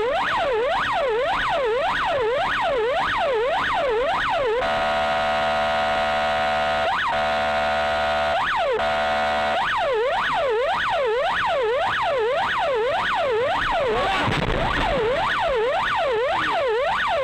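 Emergency vehicle siren on a fast yelp, its pitch rising and falling about twice a second. For about five seconds in the middle it switches to a steady horn-like tone, broken twice by a single sweep, then the yelp resumes.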